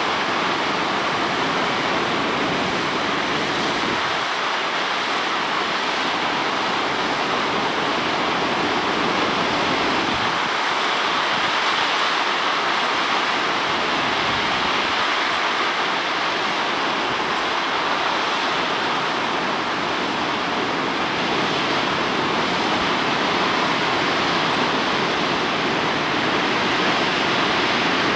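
Steady rush of a waterfall: falling water making a loud, even noise.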